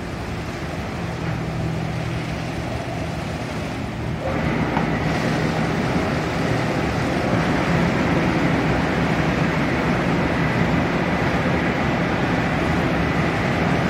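Automatic car wash machine running: a steady motor hum under rushing water spray. About four seconds in the spray gets louder, and a faint steady high whine joins it.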